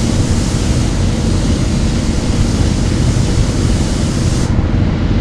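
Paint spray gun hissing steadily as it sprays water-based base coat onto an engine block, and cutting off suddenly about four and a half seconds in. A low steady rumble runs underneath.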